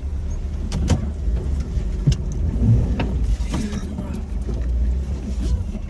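Jeep Wrangler TJ's engine running with a steady low rumble, with scattered knocks and clunks, while the Jeep sits stuck in mud.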